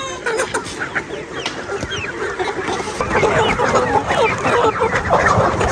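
A flock of chickens clucking and calling over one another, a dense chorus of short overlapping calls that grows busier about halfway through.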